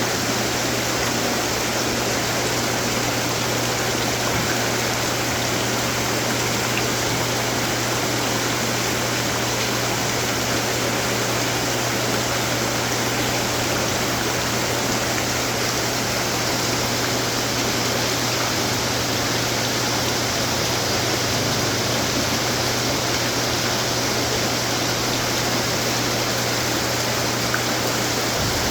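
Many decorative water fountains running together: a steady wash of falling and splashing water, with a low steady hum underneath.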